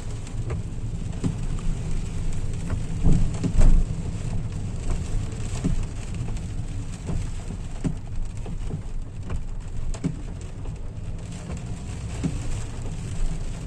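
Rain hitting a car's roof and windshield, heard from inside the moving car, with many sharp separate drop hits over an even hiss and the car's low road rumble beneath; a couple of louder hits come about three to four seconds in.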